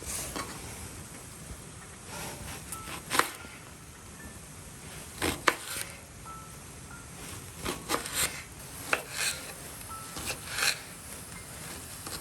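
Irregular sharp clicks and knocks, about a dozen, scattered over a steady low background noise, the loudest a little after three seconds and five seconds in.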